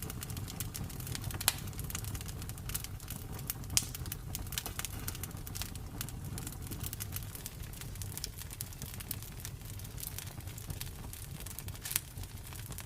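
Campfire crackling: a steady run of small snaps and pops over a low rumble of burning wood, with sharper pops about one and a half seconds in, near four seconds and near the end.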